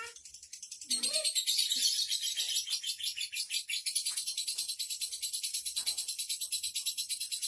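Lovebird in a long 'ngekek' chatter: a few short lower chirps, then about a second in a rapid, high-pitched trill that goes on without a break.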